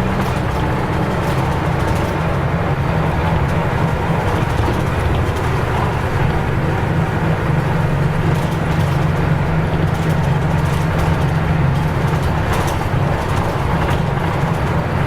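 Nissan Diesel U-UA440LSN city bus under way, heard from inside the cabin: the diesel engine runs with a steady low note over road and body noise, a little heavier in the middle.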